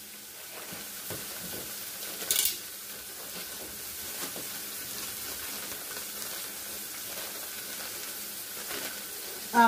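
Ground beef browning in a skillet, sizzling steadily. A brief louder rasp comes about two seconds in.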